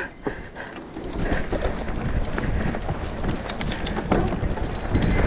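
Riding noise of a mountain bike on a trail: wind rumble on the microphone with tyre noise and clattering over the ground, building up about a second in and then holding steady.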